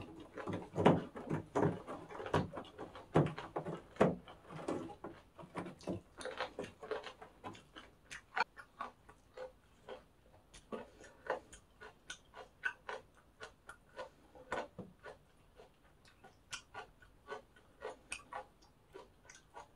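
Close-miked chewing of fried rice with crunchy pork cartilage: a run of crisp crunches and wet mouth clicks, dense for the first few seconds, then sparser sharp crunches at about two a second.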